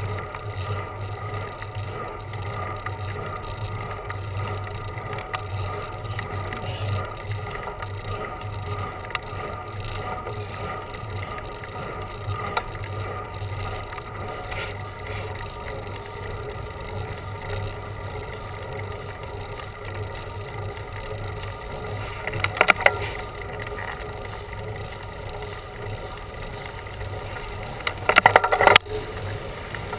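Bicycle in motion: steady rolling and wind noise with a faint whirring hum, broken by two short, loud rattling bursts, one about three-quarters of the way through and one near the end.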